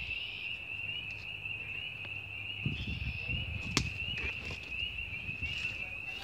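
A chorus of many frogs calling together in early spring, a steady dense high-pitched trilling. A low rumble runs through the middle, and a single sharp click comes about halfway through.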